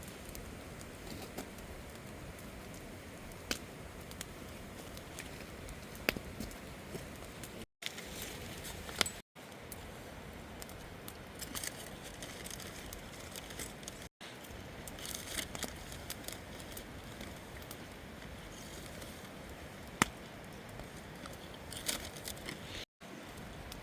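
Campfire burning, with a steady hiss and scattered sharp crackles and pops from the wood. The sound cuts out for an instant four times.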